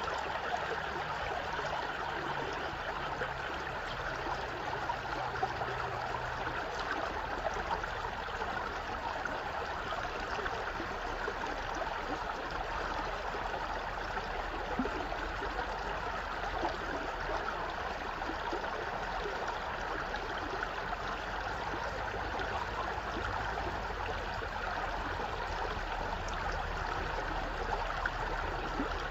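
A stream running steadily: a continuous rush of flowing water with fine splashy detail and no pauses.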